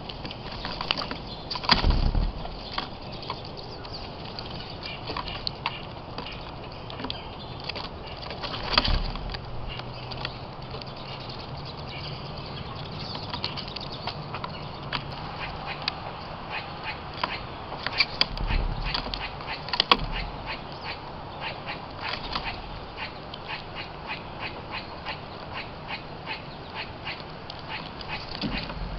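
Birds at a feeding spot: scattered sharp pecking taps that settle into a quick, regular run in the second half, with a few louder thumps.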